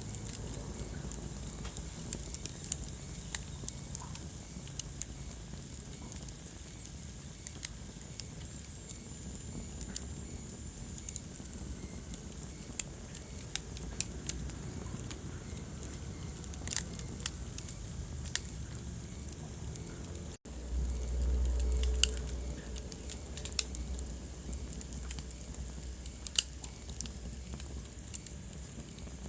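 Wood fire crackling in a fireplace: irregular sharp pops over a steady low rumble of burning. About two-thirds through the sound drops out for an instant, then the low rumble comes back stronger for a second or two.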